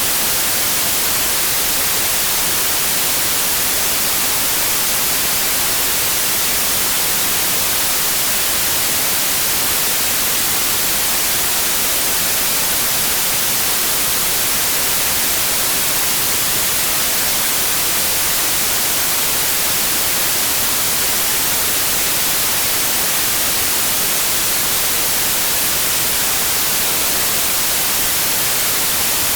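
Steady white noise: an even, unbroken hiss, strongest in the high range, with no change in level.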